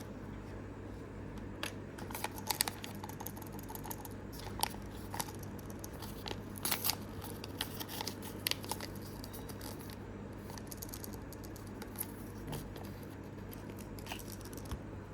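Thin plastic packaging crinkling, with a few sharp tears and small clicks, as miniature-toy blind bags are opened by hand. The handling comes in scattered bursts, busiest in the first half, over a low steady hum.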